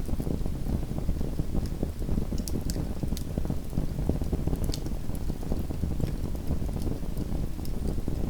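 Small wood fire crackling in a fireplace: a steady low rumble with scattered sharp pops every second or so.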